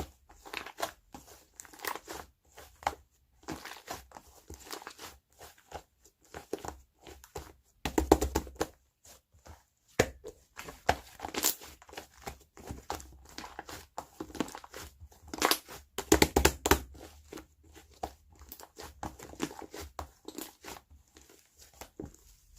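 Hands squishing and stretching a soft white clay slime: irregular sticky crackles and small pops, with louder flurries about eight and sixteen seconds in.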